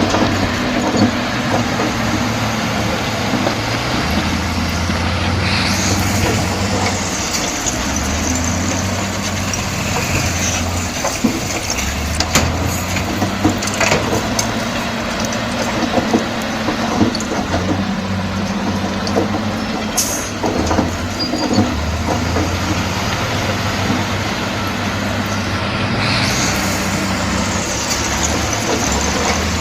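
Komatsu D68E crawler bulldozer's diesel engine running under changing load, its note rising and falling several times, with scattered clanks and knocks from the tracks and blade at work.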